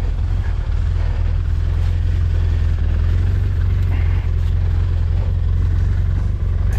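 An engine running steadily at an even speed, a deep, steady rumble with no revving.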